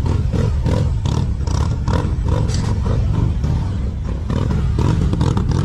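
Police motorcycle engine running loud at low speed, with uneven surges of throttle as the bike is ridden through tight cone turns.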